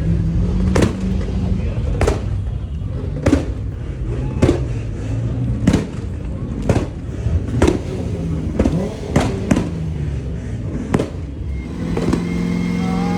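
A series of loud, sharp bangs, roughly one a second and slightly irregular, over the steady low sound of running engines. Near the end a car engine's pitched running note comes up.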